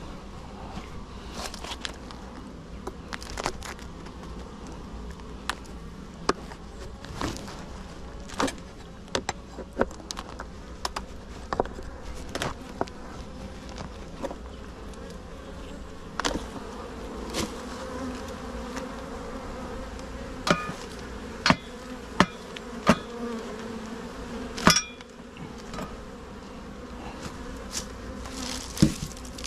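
Honeybees buzzing steadily around an open hive, with scattered sharp clicks and knocks from the hive being worked, the loudest of them in the second half.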